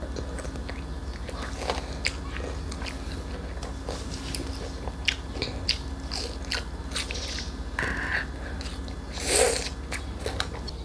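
A toddler biting and chewing crisp Korean melon (chamoe), a run of small, sharp crunches and wet clicks, with one louder burst about nine seconds in.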